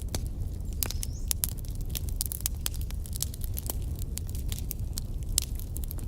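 Wood fire in a fireplace crackling: an irregular run of sharp pops and snaps over a steady low rumble.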